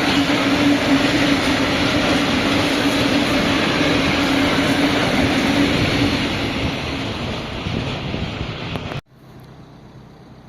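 A train passing close by: a loud, steady rush of wheels on rails with a humming tone. It eases off a little, then cuts off suddenly about nine seconds in.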